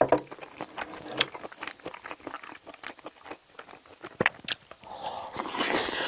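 Close-miked chewing of spicy stir-fried octopus fried rice: a quick run of wet mouth clicks and smacks, several a second. Near the end there is a louder rushing noise lasting about a second.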